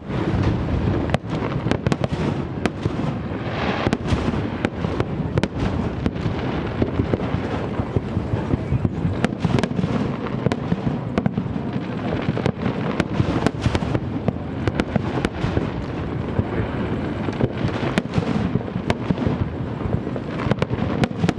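Large fireworks display: a dense, continuous barrage of bangs and crackling reports, many sharp shots every second over a steady rumble.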